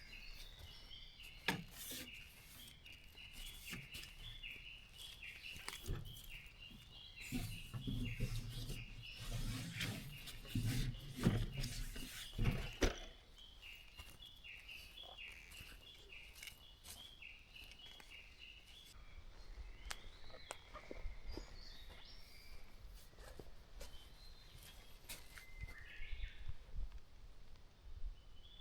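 Wild birds calling: a long run of short chirps repeated several times a second, then other, higher notes in the last third. Scattered clicks and knocks, with rustling in the first half.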